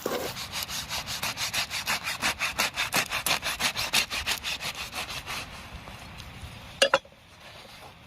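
Rapid, rhythmic rasping strokes, about six a second, which fade out after about five seconds. Two sharp knocks follow about seven seconds in.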